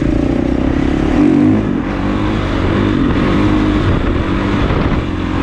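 Kawasaki KX450 dirt bike's single-cylinder four-stroke engine running, its pitch rising and dipping with throttle changes about a second in and again near the three-second mark.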